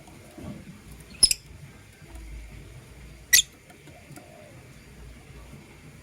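Lovebird giving two short, shrill chirps about two seconds apart.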